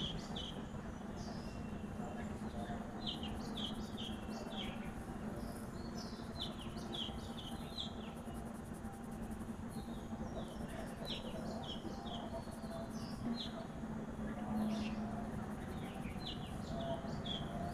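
Small birds chirping in quick runs of short notes, again and again, over a steady low hum and background hiss.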